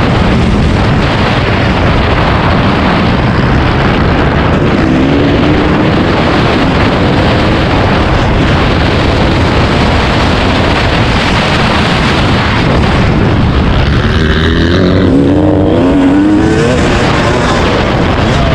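Dirt bike engine running hard under a loud, steady rushing noise; it revs with its pitch rising about five seconds in, and again several times near the end.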